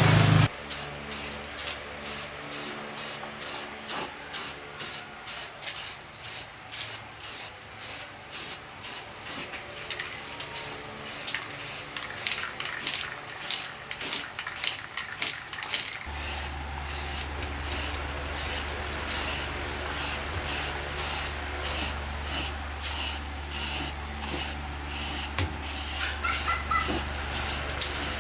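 Air spray gun hissing in short, regular bursts, about two a second, as the trigger is pulled and released. A steady low hum joins about halfway through.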